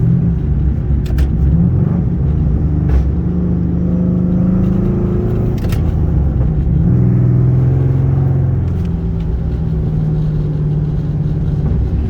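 Cammed 2009 Pontiac G8 GT's 6.0-litre V8 through headers and a full exhaust, heard from inside the cabin. After a downshift the engine pulls with its pitch rising over a few seconds, then settles into a steadier drone.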